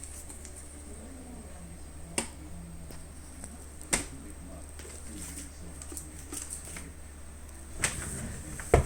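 A cat playing with a wand toy: a few scattered sharp taps and knocks over a steady low hum, the loudest one near the end.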